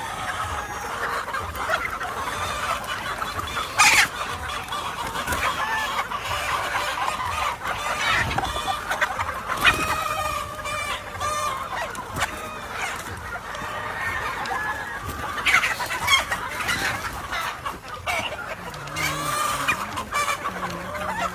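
Many chickens from a gamefowl flock clucking over one another, with roosters crowing now and then.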